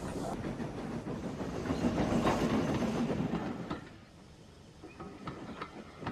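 Goods train running along the rails with a clickety-clack rumble, loudest around two to three seconds in, then falling away about four seconds in to faint scattered clicks as it moves off.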